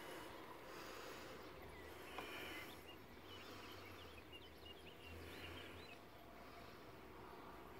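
Faint outdoor ambience with a low steady hum. Small birds chirp in a quick flurry of short calls from about three to five and a half seconds in, and there is a single light click about two seconds in.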